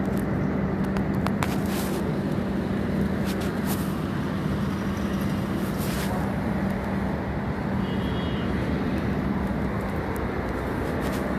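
Steady background rumble with a constant low hum and a few faint clicks.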